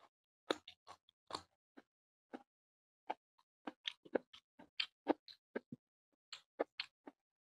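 Close-up chewing of rice and fish curry: a string of short wet smacks and clicks from the mouth, irregularly spaced, a few each second.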